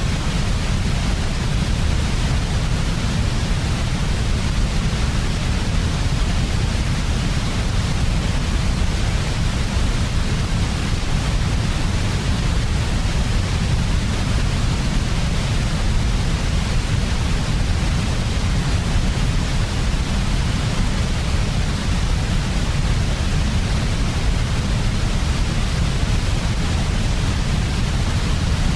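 Steady, unbroken synthetic white noise of the kind played as a sleep aid for babies: a deep even rumble in the low end under a constant airy hiss, with no change at all.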